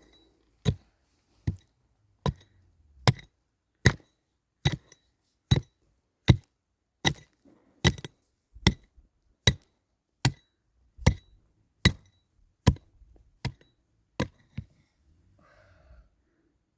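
Steady, evenly spaced blows of a hand tool striking wood, about one every 0.8 seconds, each with a faint ring. They stop about fifteen seconds in.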